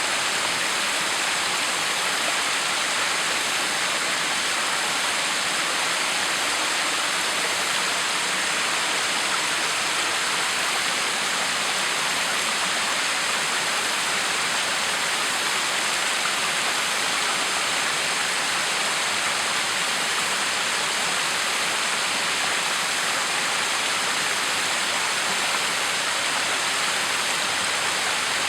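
Backyard waterfall: water falling and splashing in a steady, even rush with no change.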